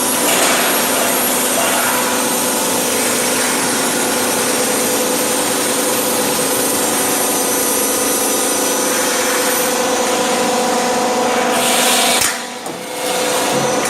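Galvalume light-steel roll forming machine running, a steady loud mechanical drone with a constant hum. The noise drops abruptly about twelve seconds in and picks up again a second later.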